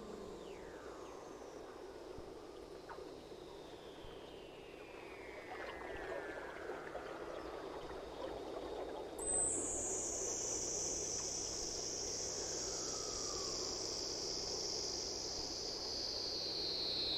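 Electronic music of slow gliding synthesizer tones over a steady rushing hiss. About nine seconds in, a high tone comes in suddenly and falls slowly in pitch.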